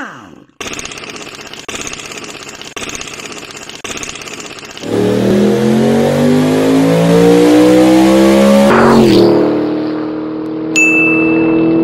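Car engine revving hard, its pitch climbing in steps as it accelerates through the gears, then dropping and settling to a steadier run. Before it come a few quieter pulses about once a second, and near the end a sharp high ring sounds and fades.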